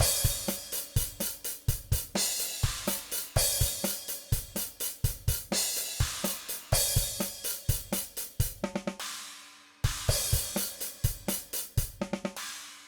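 DrumGizmo virtual drum kit playing a groove of kick, snare, hi-hat and cymbal crashes, played back from the DAW. Playback stops for a moment a little under ten seconds in and starts again on a crash.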